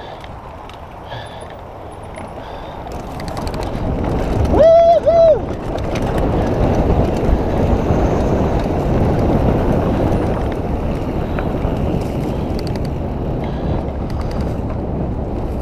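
Mountain bike rolling fast over a rough dirt and rock trail: steady rumble of tyres and rattling bike with wind on the microphone, building up about three seconds in as speed picks up. Two short high calls sound about five seconds in.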